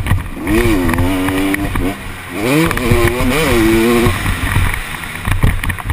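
KTM SX 250 two-stroke motocross engine pulling hard under throttle. Its pitch climbs about half a second in and holds, eases off near two seconds, then climbs and wavers again before dropping away just after four seconds. Heard from the rider's helmet camera over a steady low rumble.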